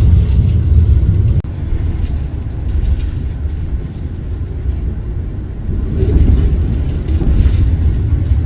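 Rumble of the Argo Bromo Anggrek express train running on the rails, heard from aboard: a loud, deep, steady rumble that drops suddenly about a second and a half in and swells again about six seconds in.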